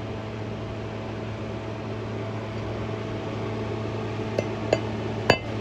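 Steady machine hum, then three sharp metallic clinks with a brief ringing near the end, like steel tools striking metal.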